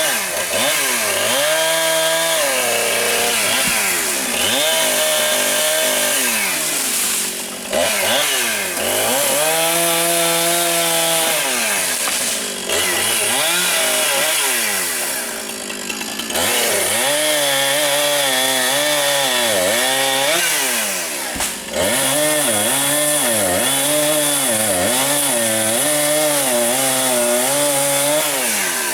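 Chainsaw cutting tree wood at high revs, its engine note swelling and sagging over and over as the chain bites and frees. The engine drops back briefly a few times between cuts.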